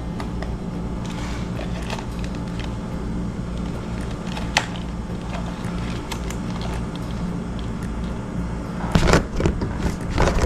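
Metal dishwasher kick plate being handled and fitted, with a cluster of knocks and rattles near the end and a single click about halfway, over a steady low hum.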